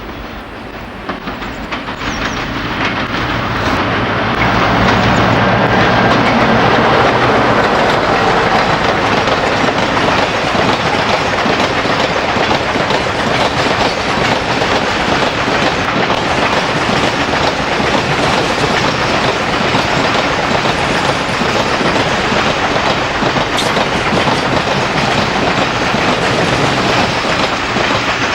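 A BR Class 60 diesel locomotive's Mirrlees engine running as it passes, growing louder over the first few seconds. The freight wagons then roll by for the rest of the time with a steady clickety-clack of wheels on the rails.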